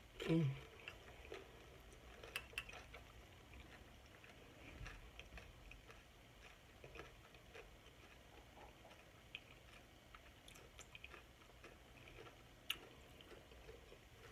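Close-up chewing of a soup-soaked tortilla chip: faint wet mouth sounds with scattered small clicks and crunches, one sharper click near the end. Right at the start a short hum of enjoyment falls steeply in pitch.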